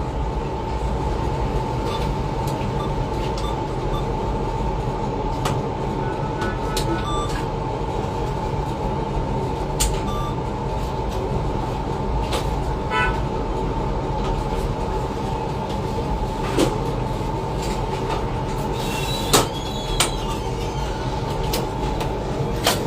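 A steady low rumble with a constant high hum, broken by a few scattered clicks and knocks.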